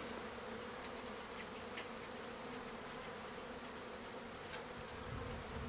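Honeybees flying in numbers around their hive, a steady, even buzz.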